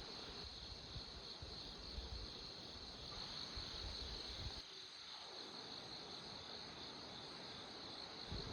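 Insects chirring outdoors in a steady, high-pitched drone, with a faint low rumble underneath.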